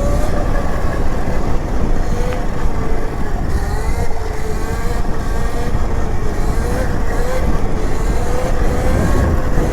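Electric dirt bike's motor whining while riding, its pitch wavering up and down with the throttle, over a heavy low rumble.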